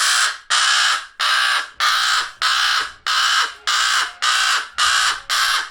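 A young American crow giving harsh, rasping begging caws over and over at a steady pace, nearly two a second: the food-begging call of a hand-raised baby crow.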